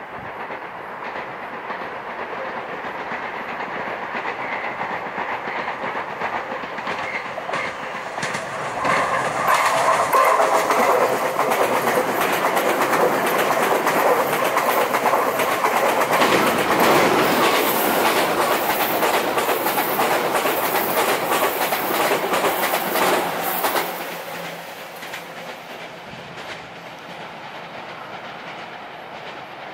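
Meitetsu electric train passing close on a curve, its steel wheels clattering rapidly over the rails. The sound builds and is loudest from about a third of the way in, then falls away suddenly near three-quarters to a softer rumble.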